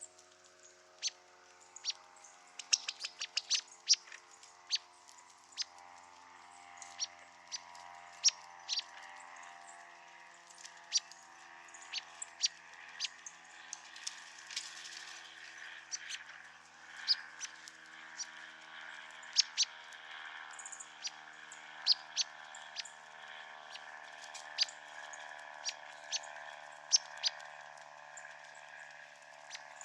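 Many short, sharp chirps at irregular intervals, sometimes several a second, over a steady low hum.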